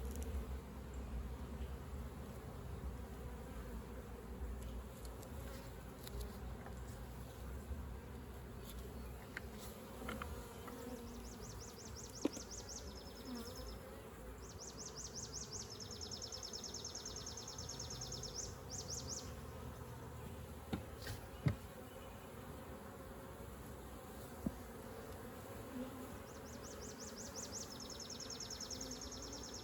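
Honeybees buzzing around the hive, a steady hum. A high, rapidly pulsing trill comes and goes three times, and there are a few sharp clicks.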